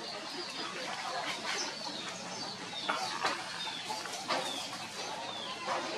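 Birds chirping in several short, high, falling calls over a steady hiss of light rain.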